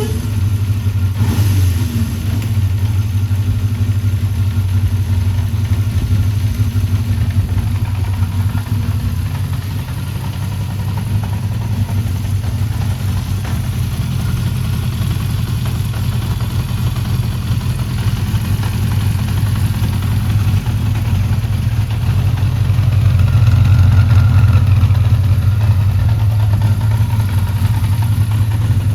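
Honda CB400F's air-cooled 408cc inline-four engine idling steadily, growing a little louder about three quarters of the way through.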